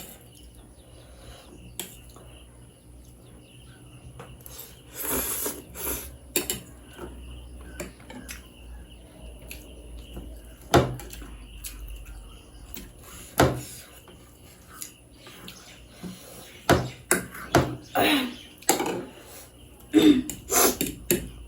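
Eating sounds: cutlery clinking and scraping against a plate or bowl now and then, with mouth sounds of eating in between.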